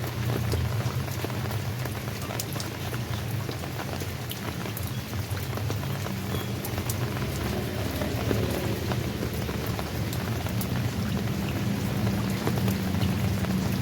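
Steady rain, with many single raindrops striking sharply through the hiss, over a low rumble that swells near the end.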